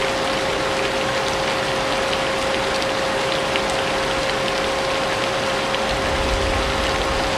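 Vacuum cleaner running steadily, its motor holding one constant whine over a rushing hiss, mixed with steady rain whose drops tick faintly. A low rumble swells in near the end.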